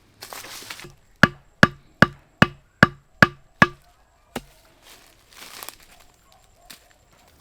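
A hand tool striking wood: a quick run of about eight sharp, evenly spaced blows, then one more a moment later.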